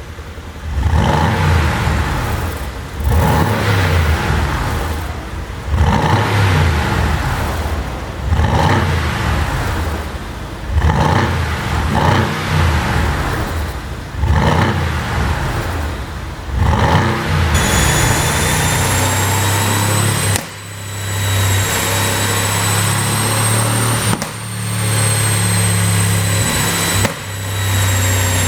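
Mercedes-AMG GT S twin-turbo V8 revved over and over, about seven blips a couple of seconds apart, each falling back with exhaust crackle from a pop-and-crackle tune. From about two-thirds in the engine holds steady higher revs with a high whine, dipping briefly three times.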